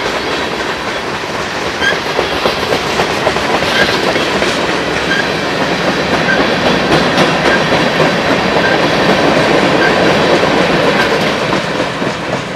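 A train passing close by on the mainline, its wheels clattering steadily over the rail joints. The sound begins to fade near the end.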